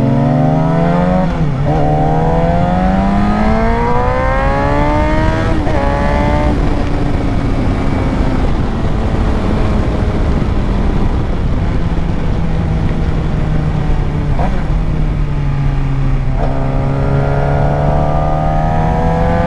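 Suzuki GSX-R 600's inline-four engine accelerating hard, its pitch climbing and dropping back at an upshift about a second and a half in, climbing again to a second shift, then running at a steadier cruise under rushing wind. Near the end it pulls up through the revs once more.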